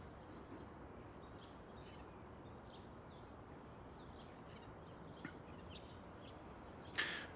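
Faint outdoor background noise with scattered short, high bird chirps. A brief rustling noise comes near the end.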